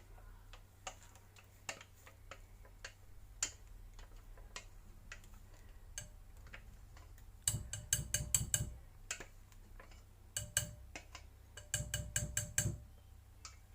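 A kitchen utensil clicking and tapping against a saucepan and bowl as thickened lemon cream is transferred: scattered single clicks, then three quick runs of rapid taps in the second half.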